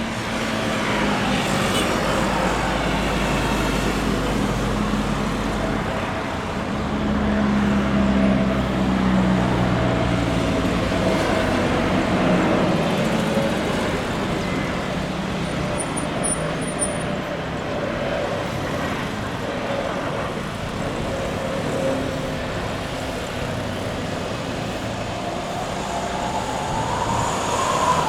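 Jet airliner engines running as planes pass on their landing approach: a steady rumble with engine whine, one tone gliding down in pitch in the first few seconds and another rising near the end.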